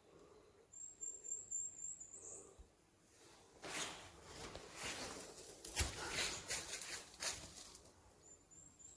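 Footsteps crunching and rustling on rough ground for several seconds. Before and after them, a bird gives a thin, high-pitched call of a few quick repeated notes.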